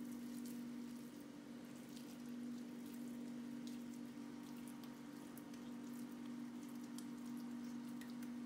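Faint crackle of meatballs searing in a little oil in a pan, scattered small ticks over a steady low hum.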